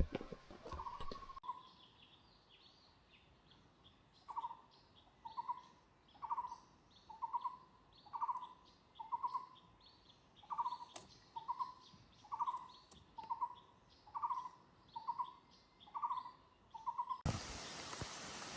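A bird repeating a short, low hooting note about twice a second, with fainter, higher chirps of other birds behind it. Near the end a steady hiss cuts in suddenly.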